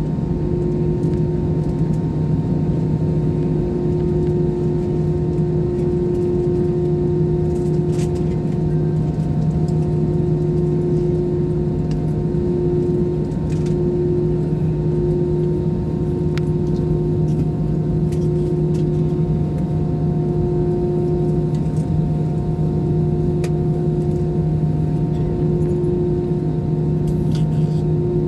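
Steady drone inside an airliner cabin: a continuous rush with a constant low hum and several fixed tones from the engines and air system, and a few faint clicks.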